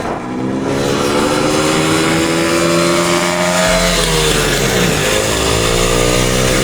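Dirt bike engine accelerating, its pitch climbing steadily for nearly four seconds. It drops at a gear change about four seconds in, dips again about a second later, then climbs once more.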